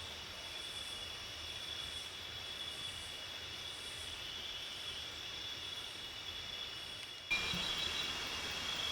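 Rainforest insect chorus: several steady high-pitched insect tones, with a fainter, higher pulsing call repeating a little less than once a second. Near the end the sound cuts abruptly to a louder stretch of similar insect buzzing.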